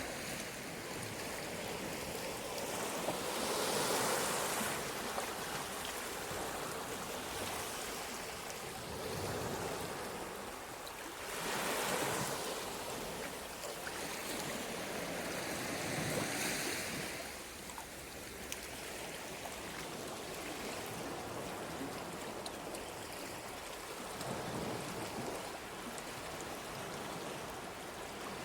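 Sea surf washing on the shore, a steady rush that swells louder four times as waves break.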